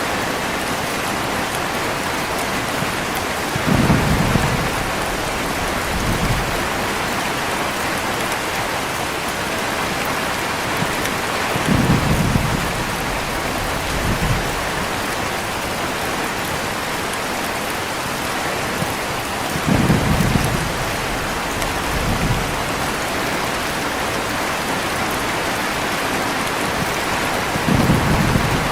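Heavy rain falling steadily, with low rolls of thunder about every eight seconds, each followed by a fainter rumble some two seconds later.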